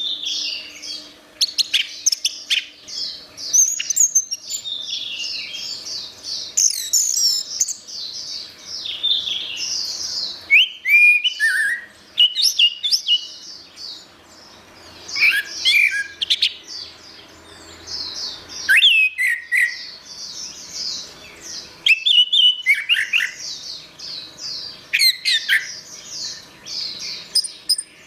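Orange-headed thrush singing a long, varied song: a near-continuous stream of quick, high chattering and twittering phrases with sliding notes, broken by a few short pauses.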